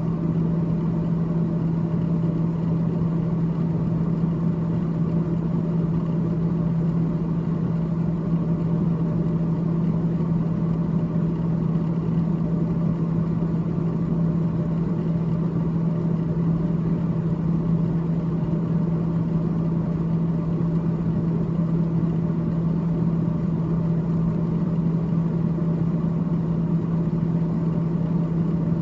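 Freezer fan of a GE GTH18XCTZRBB refrigerator running steadily: a constant low hum with a whir over it, unchanging throughout.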